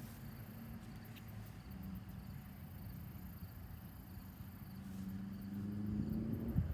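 Outdoor pondside ambience: faint insects chirping in short, evenly spaced high pulses over a low steady hum that grows louder near the end.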